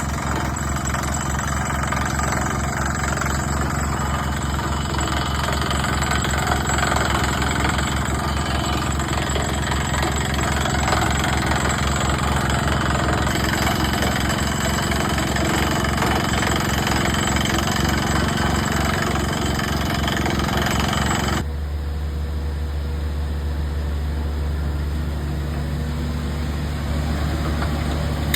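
Shakti 190 drill rig running under load, a dense mechanical clatter over fast low pulsing. About 21 seconds in the clatter cuts off abruptly, leaving the rig's engine running steadily on its own.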